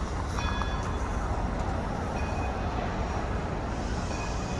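A train running along the track with a steady rumble, and a few brief, faint high-pitched squeaks.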